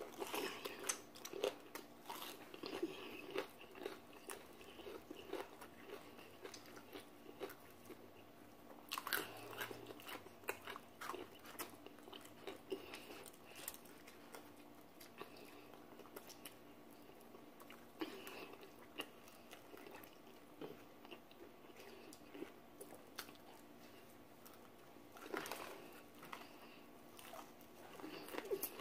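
Two people biting and chewing crispy fried chicken: scattered crunches and chewing sounds, close to the microphone, over a faint steady hum.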